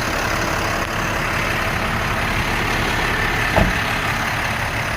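The International 4400 truck's DT466 inline-six diesel engine idling steadily, with one short knock about three and a half seconds in.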